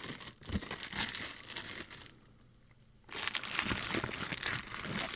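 Packaging being handled and crinkled while a model is unboxed: dense crackling crumples, pausing about two seconds in and starting up again, busier, about a second later.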